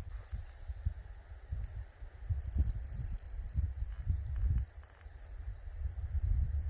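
Field insects such as crickets trilling: several high-pitched, steady calls overlap, each starting and stopping every second or so, over a low, uneven rumble of wind on the microphone.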